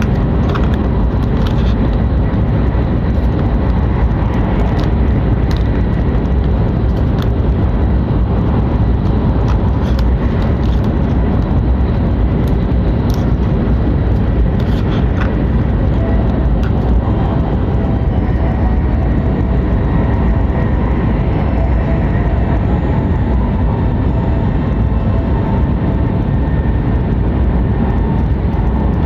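Hokuriku Shinkansen train running at speed, heard from inside the passenger car: a loud, steady rumble of wheels and running gear, with scattered light ticks in the first half. A faint whine of several steady tones joins after about 17 seconds.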